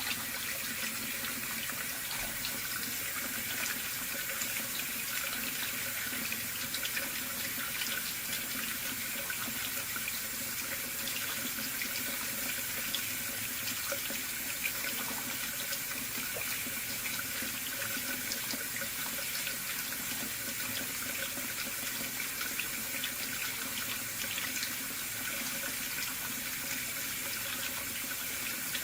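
Faucet running steadily into a sink at about half flow, a continuous even splashing hiss.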